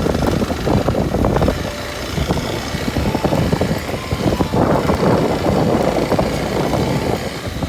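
Kawasaki Super Sherpa's air-cooled 250 cc single-cylinder four-stroke engine running, with an uneven, pulsing exhaust note.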